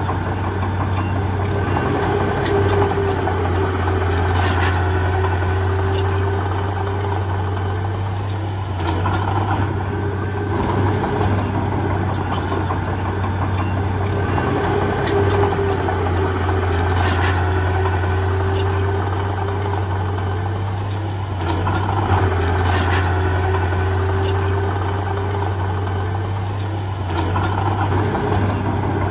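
Heavy diesel engine of earth-moving machinery running steadily with a deep, constant drone. A whine rises and fades every several seconds, and there are scattered clanks.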